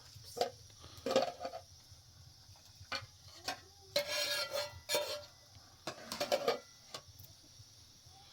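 Dishes and utensils clinking and scraping in a string of irregular short knocks, one of them ringing briefly about four seconds in.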